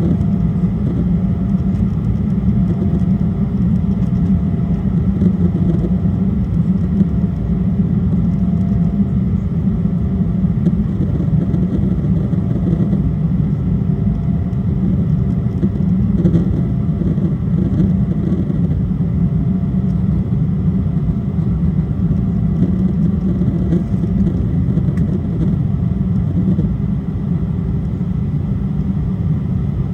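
Steady low rumble of an Embraer E175 airliner's twin turbofan engines and airflow, with faint steady whining tones above it.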